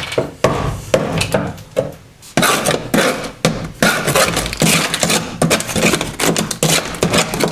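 Old sound-deadening being scraped and chipped off a car's metal floor pan: a quick run of sharp knocks and cracks with rasping scrapes between them, busiest in the second half.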